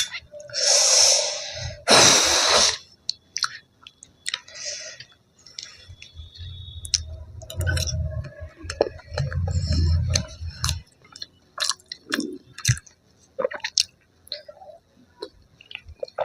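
Close-miked eating: chewing with small wet mouth clicks. Two louder, noisy bursts come in the first three seconds, and a low rumble runs for a few seconds in the middle.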